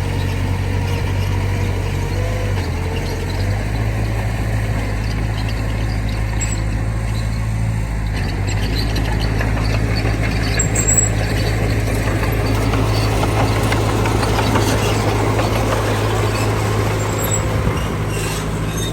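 Heavy diesel engine of earthmoving machinery running steadily, its pitch stepping up about three seconds in. A louder rush of noise builds through the second half, with a few brief high squeaks.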